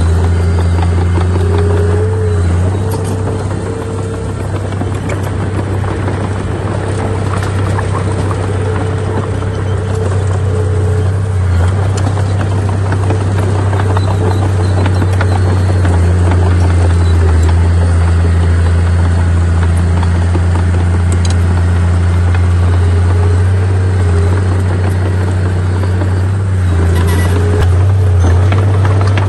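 Heavy earthmoving machine's diesel engine running steadily, a loud, even low drone with a rumbling noise over it.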